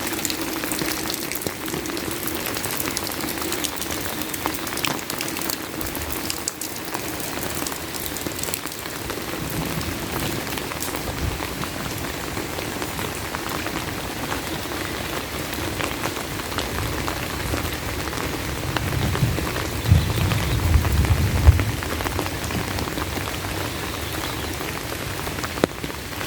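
Steady rain falling, with a low rumble that swells for a few seconds about two-thirds of the way through.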